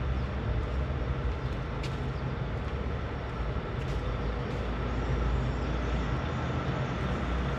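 Steady low rumble of parking-garage background noise, with a faint steady hum above it and a few faint clicks.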